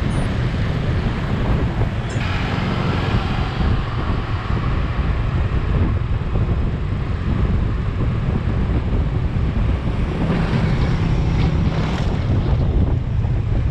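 Wind buffeting the microphone on a moving vehicle, a steady heavy rumble with road and traffic noise beneath it.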